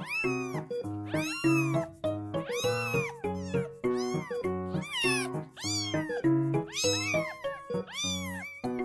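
Newborn kitten crying: high meows that rise and fall in pitch, repeating about twice a second. Background music with a steady bass line plays underneath.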